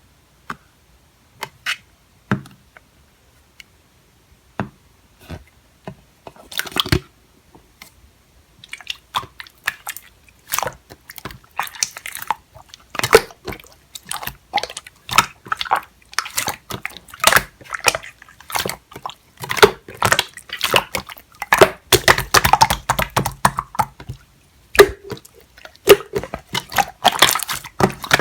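Clear slime being pressed and squished by hand, making sticky clicks and pops: a few scattered clicks at first, then a dense, quick run of them from about nine seconds in.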